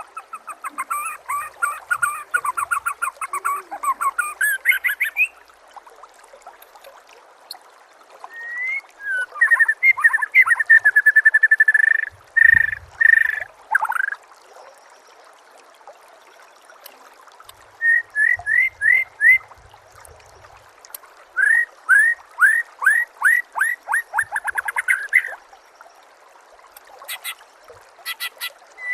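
Songbird singing in bursts of rapid, repeated whistled notes, each burst lasting a few seconds, with short pauses between them.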